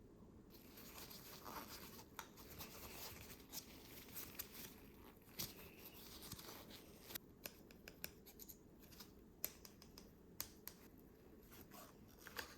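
Faint handling sounds of a DIY candy kit: soft rustling with many small sharp clicks and taps, like plastic trays and packets being worked by hand.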